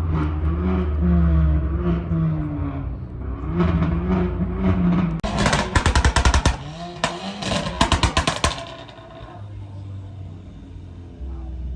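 A performance car's engine running and revving with a low rumble, then about three seconds of a rapid string of loud sharp cracks, exhaust pops and bangs, before it settles to a quieter low rumble.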